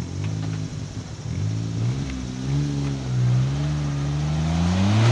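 Suzuki Jimny's engine revving under load as it climbs a steep dirt slope, its pitch wavering up and down with the throttle and then rising steeply near the end.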